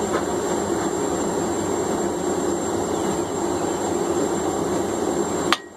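Blacksmith's forge running with a steady rushing noise while hot steel is worked at it, cut off suddenly near the end by a sharp click.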